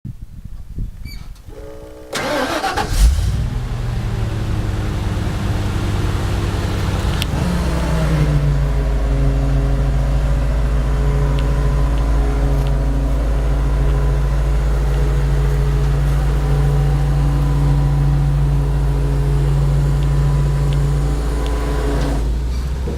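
Ford F-700 dump truck's 7.0-litre gas V8 being started: it catches about two seconds in with a quick burst of revs, then runs steadily. About eight seconds in, the engine note steps up and holds, then drops back near the end.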